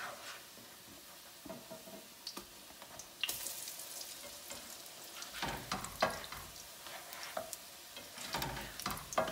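Potato pancakes frying in shortening in a nonstick pan, a steady sizzle that grows louder a little over three seconds in as a pancake is flipped into the hot fat. A spatula knocks and scrapes against the pan about five to six seconds in and again near the end.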